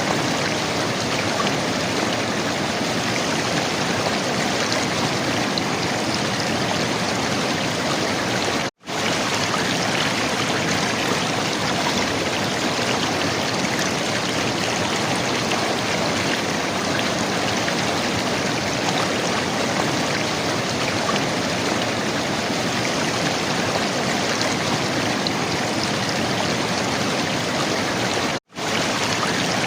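River water flowing and gurgling in a steady rush, with two momentary dropouts, about nine seconds in and near the end.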